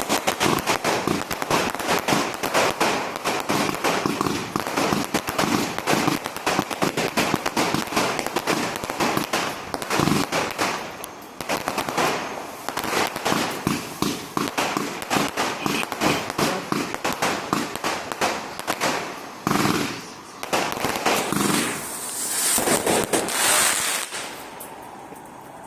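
Fireworks going off in rapid, continuous crackling volleys of sharp cracks. Near the end a hissing burst swells, then the noise dies down.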